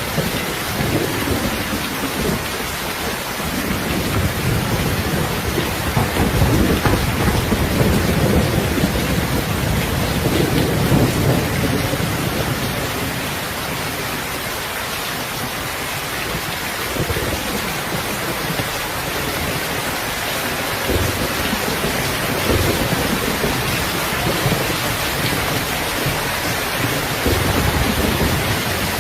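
Steady rain hissing on surfaces, under a low rumble of thunder that swells and fades twice.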